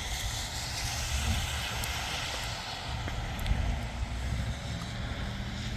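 Wind buffeting the phone's microphone outdoors in a snowstorm: an uneven low rumble over a steady hiss.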